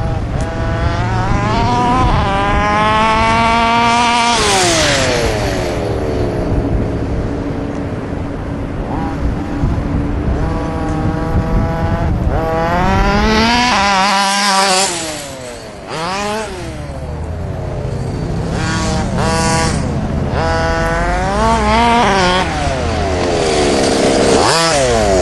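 Car engine accelerating hard, its pitch climbing and then falling several times as it revs up and eases off while driving past.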